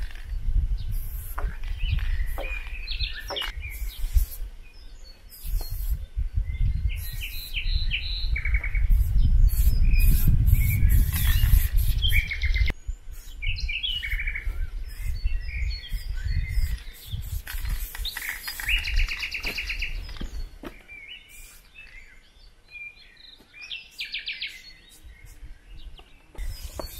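Songbirds chirping and trilling, with short hissing bursts from an aerosol spray paint can. A low rumble runs under the first half, then drops away.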